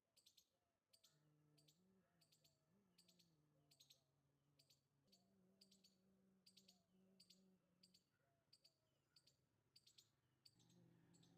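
Near silence, with very faint short high chirps or clicks repeating about twice a second over a faint low hum.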